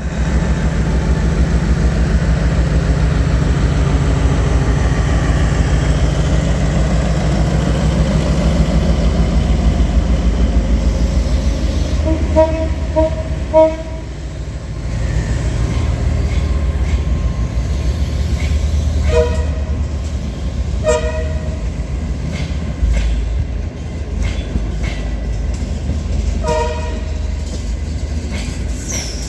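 Diesel-hauled passenger train pulling out of a station, the engine and wheels running steadily. Its horn sounds in short blasts: three quick toots about halfway through, two more a few seconds later, and one more near the end.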